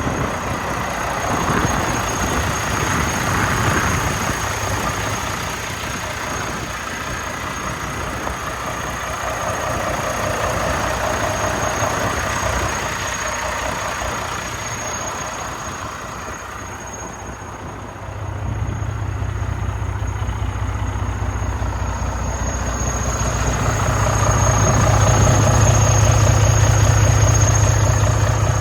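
Volvo D13 diesel engine of a 2023 Volvo VNL860 semi truck idling steadily, with a thin high whine over it. About eighteen seconds in, a deeper low rumble comes in and grows louder near the end.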